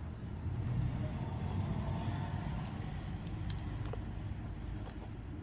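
Steady low background rumble with a few faint, sharp clicks of the small plastic housing of a Bluetooth neckband being handled and pressed shut.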